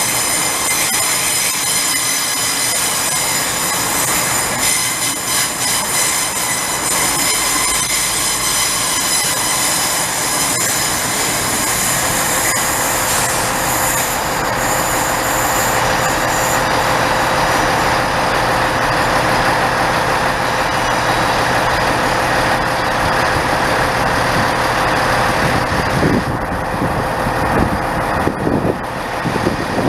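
A train running on the rails with its wheels squealing in several high steady tones that fade out about halfway through, leaving a steady rumble. A few sharp knocks come near the end.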